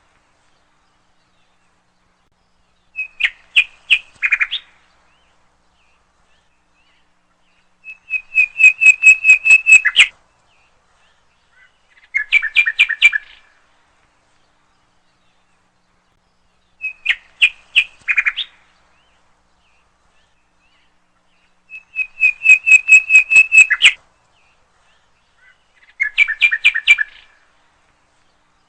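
A bird singing in six short phrases of rapid repeated chirps, each phrase about two seconds long, coming every four to five seconds.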